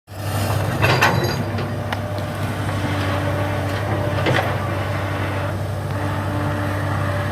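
Heavy earthmoving machinery running: a steady low diesel drone, with short knocks about a second in and again a little after four seconds.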